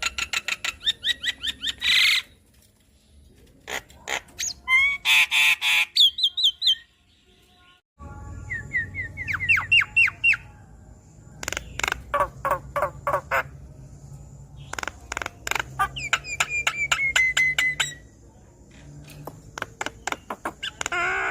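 Javan myna singing: phrases of fast, harsh clicking rattles mixed with short whistled notes, a few seconds each with brief pauses between them.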